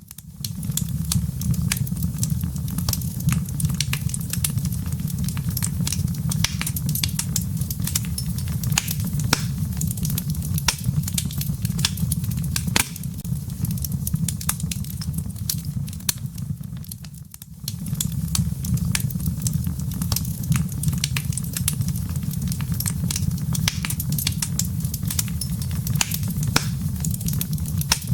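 Wood fire in a fireplace crackling steadily, a low rumble of flame under many irregular sharp pops and snaps from the embers. The sound briefly fades and returns about two-thirds of the way through.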